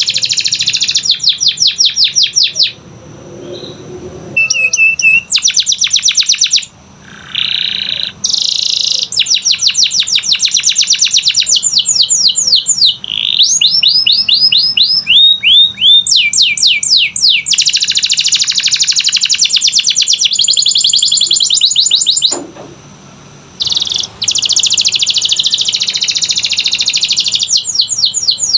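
Canary singing a fast song of trills and rolls: rapid runs of repeated high notes that switch from one phrase to the next, broken by two short pauses, about three seconds in and about twenty-two seconds in.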